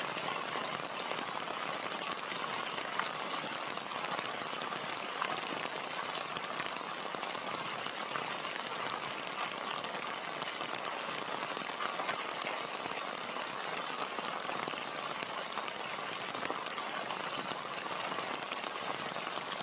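Steady rain falling, with many small drops pattering and ticking on surfaces.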